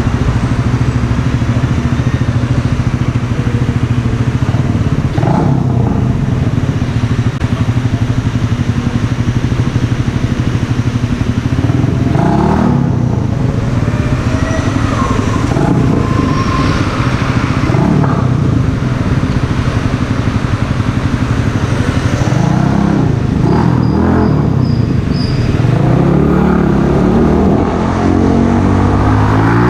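Mash Cafe Racer 125cc's single-cylinder four-stroke engine idling through an aftermarket Megaton exhaust. The rider blips the throttle several times, each rev rising briefly and dropping back to idle, with one more rev climbing near the end.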